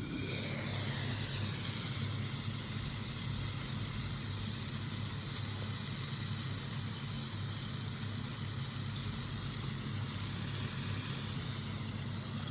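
A steady hiss over a low, even hum, starting abruptly.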